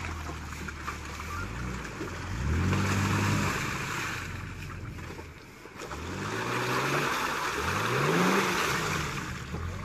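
Off-road 4x4's engine revved up twice, about two seconds in and again about six seconds in, its pitch climbing each time, with a rushing noise rising alongside the revs.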